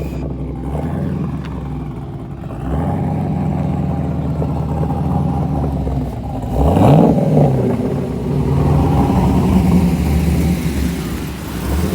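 Car engines running, with one revving up hard in a sharp rising sweep about six and a half seconds in, the loudest moment; then steady engine sound again.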